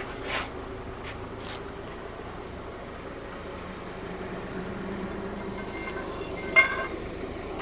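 Forklift engine running steadily while it moves a heavy diesel engine block, with a brief sharp high squeak about six and a half seconds in.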